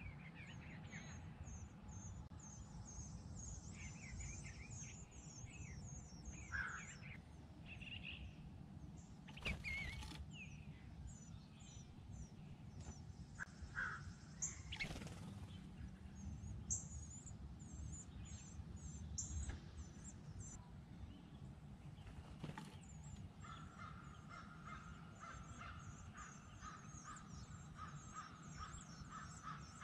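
Bluebird parent's wings fluttering in short bursts as it comes to the nest box with food for its nestlings. Other songbirds chirp in quick repeated high notes throughout, with a few harsher calls, and a steady trill sets in near the end.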